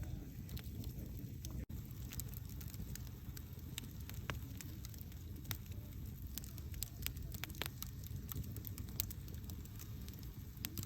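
Wood campfire burning: a steady low rumble of flames with many sharp crackles and pops scattered irregularly throughout. The sound drops out for an instant at about one and a half seconds in.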